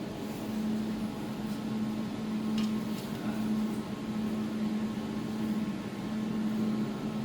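A 200-watt jewelry laser welding machine running idle: a steady low hum with fan-like noise, the hum dropping out briefly a few times.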